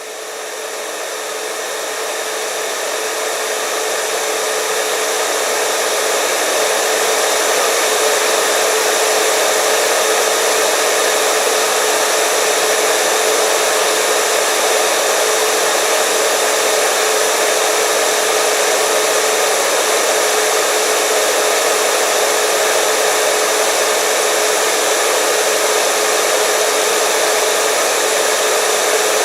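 Hair dryer running continuously: a steady rush of blown air with a steady motor whine under it. It swells up over the first several seconds, then holds level.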